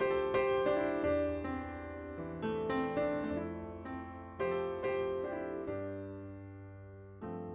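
Background music: a gentle solo piano playing struck chords that ring and fade.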